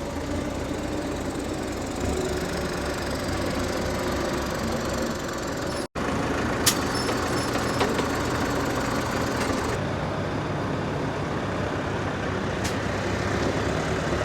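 Motor vehicle engine running steadily, with a few faint clicks. The sound drops out for an instant about six seconds in, then resumes.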